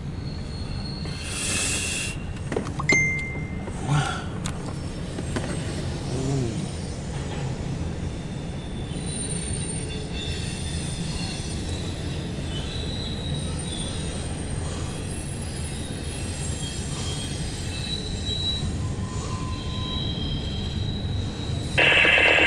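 CSX intermodal freight train rolling past: a steady rumble of wheels on rail, with thin high wheel squeals coming and going through the middle. Near the end a much louder radio-like sound cuts in abruptly.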